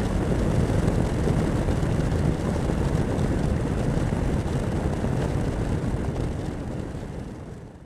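Honda X4 motorcycle's inline-four engine running steadily at cruising speed, mixed with wind rush on the bike-mounted camera's microphone. The sound fades out near the end.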